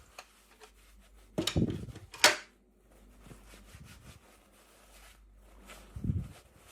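Hands handling and opening toy packaging: a couple of dull bumps and rubs, with one sharp click or snap about two seconds in.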